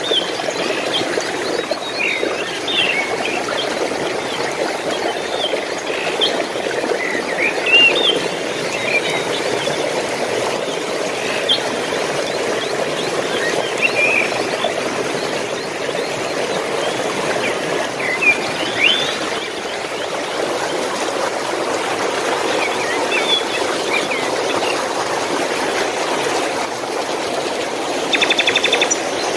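Water running steadily over stones, a constant rushing, with small birds chirping and twittering on top in short calls scattered throughout. Near the end a rapid buzzing trill cuts in.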